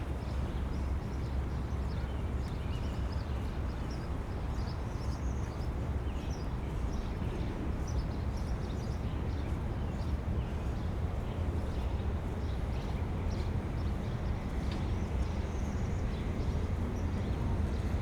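Outdoor city ambience: a steady low rumble, with faint scattered high chirps like small birds and light footsteps of someone walking.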